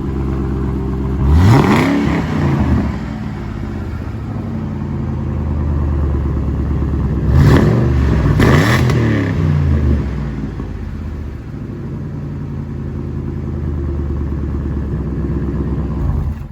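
2004 Mercury Marauder's 4.6-litre DOHC V8 idling through an exhaust with the rear catalytic converters removed, no crossover pipe and the mufflers fitted backwards. It is revved briefly three times: once about a second and a half in, then twice in quick succession around eight and nine seconds, settling back to idle each time.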